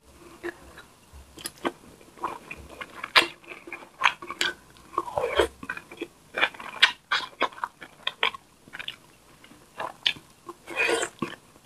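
Close-miked eating sounds: chewing, biting and lip-smacking while eating tilapia in coconut milk with rice by hand, in many short, irregular clicks.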